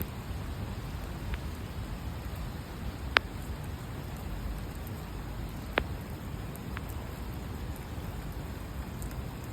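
Steady rain falling, with a few sharp ticks close by, the loudest about three seconds in and another just under six seconds in.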